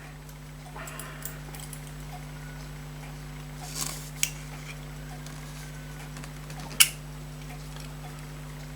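Small clicks and taps of handling at a watchmaker's bench over a steady low electrical hum, with a soft rustle about four seconds in and one sharper click near the end.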